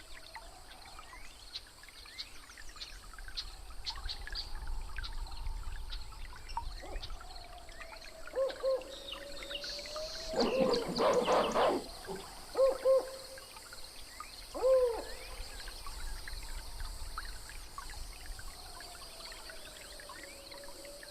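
Jungle soundscape: scattered high bird chirps over a slow, wavering low tone, with short hooting calls in pairs and a loud, harsh animal call lasting about a second and a half midway through.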